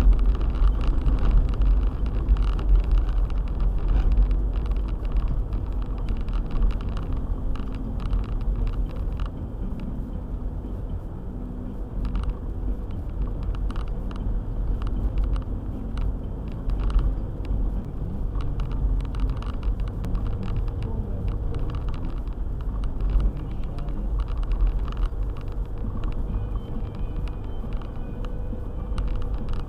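Car driving, a steady low rumble of engine and road noise with a faint steady hum, dotted with frequent light clicks and knocks.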